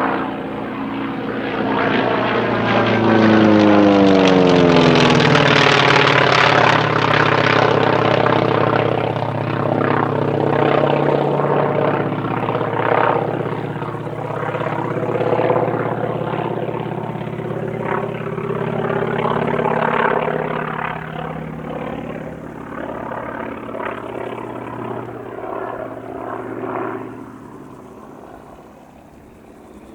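North American T-28 Trojan's Wright R-1820 nine-cylinder radial engine and propeller on a pass. The engine note falls in pitch as the plane goes by and is loudest a few seconds in, then slowly fades.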